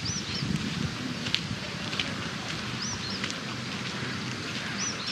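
A bird repeating a short, high two-note call, each note rising and falling, three times about two seconds apart. Underneath is a steady rustling crackle with a few sharp clicks.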